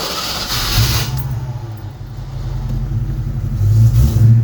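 1989 Ford Mustang GT's 5.0-litre V8 firing up on a cold start and running loud through a straight-piped exhaust with an X-pipe and the catalytic converters cut off. The harsh noise of the catch fades after about a second into a steady low exhaust note that swells louder near the end.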